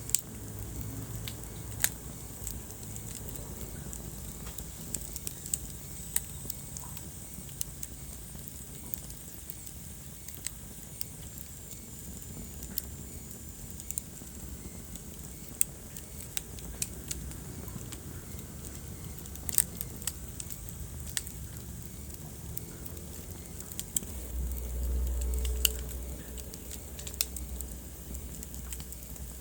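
Wood fire crackling in a fireplace: irregular sharp pops and snaps over a steady low rumble of flames. The rumble swells for a couple of seconds near the end.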